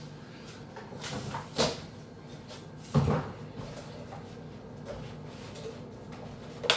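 Kitchen handling sounds: a light knock about a second and a half in, a heavier thud about three seconds in, and another knock at the very end.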